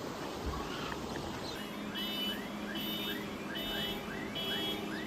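Rushing water, then a car alarm sounding: a fast repeating rising chirp, about two to three a second, with a pulsing higher tone above it.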